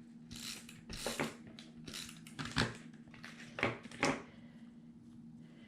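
Paper rustling and crinkling in about half a dozen short bursts as die-cut cardstock pieces are handled and set on a scrapbook page.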